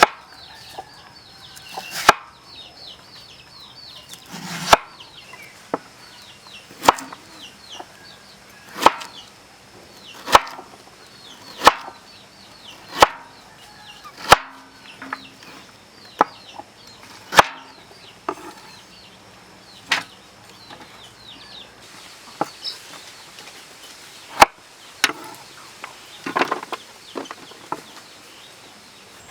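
Knife or cleaver chopping on a wooden board: single sharp strokes every one to three seconds, with short high chirps in the background.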